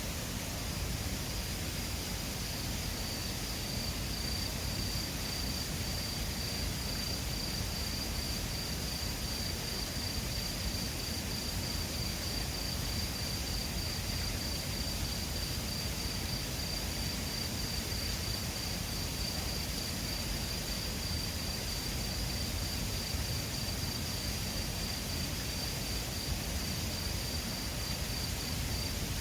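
Mountain river rushing steadily, with an insect trilling continuously at a high pitch over it, beginning about half a second in.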